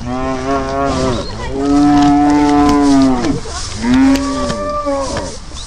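Cattle mooing: three long, drawn-out moos one after another, the first already under way at the start.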